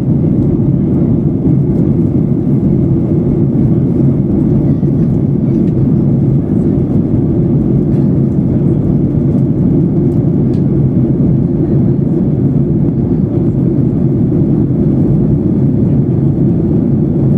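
Steady cabin noise inside a Boeing 737-800: a constant low rumble of its CFM56-7B jet engines and the airflow over the fuselage, with no change in pitch or level.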